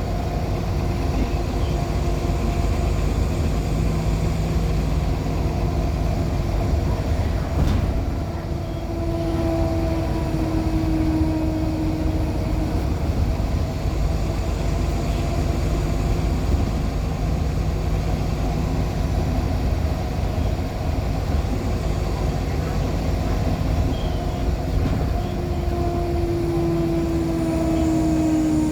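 Ride aboard a 2014 NOVA LFS articulated hybrid bus with a Cummins ISL9 diesel and an Allison H50 EP hybrid drive: a steady low rumble of the drivetrain under way. A whining tone rises out of it twice, about nine seconds in and again near the end, where it falls slightly. A brief knock comes about eight seconds in.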